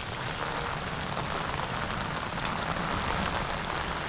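Steady hiss of rain and wind in wet, stormy weather, with no distinct events.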